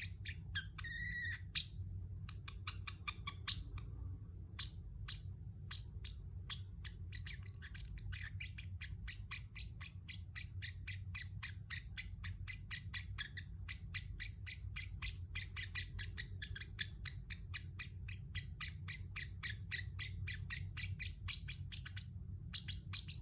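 A Pacific parrotlet chirping in a fast, steady stream of short high chirps, several a second, with a brief pause about four seconds in. A steady low hum runs underneath.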